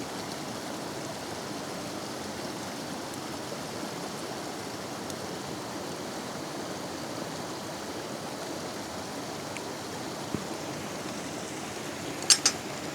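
Steady rushing outdoor background noise, even and unchanging, with a single sharp click about ten seconds in and a couple of brief ticks near the end.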